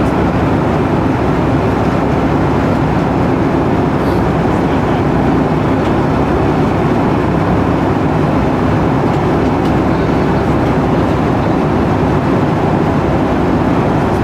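Steady cabin roar of a Boeing 757-200 in flight, from its engines and the air rushing past the fuselage, heard from inside the economy cabin.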